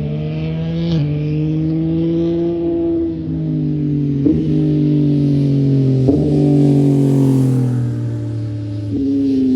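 2024 Yamaha XSR900's three-cylinder engine running through a RaceFit Growler X exhaust, its pitch slowly rising and easing with several brief breaks in the note, then falling sharply near the end.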